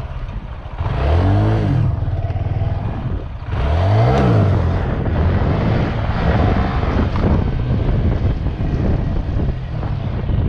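Honda Grom's 125 cc single-cylinder engine running under way, revving up twice (about a second in and again around four seconds) before settling back to a steady run.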